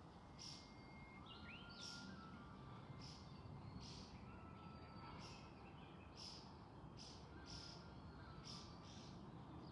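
Faint bird calls: short, high chirps repeated about once a second over a low, steady background noise.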